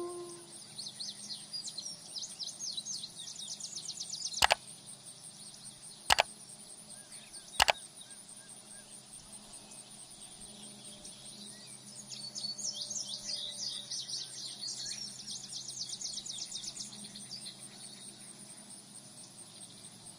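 Crickets chirping in fast, high trills, in a run during the first few seconds and again from about twelve seconds in. Three sharp clicks come between about four and eight seconds.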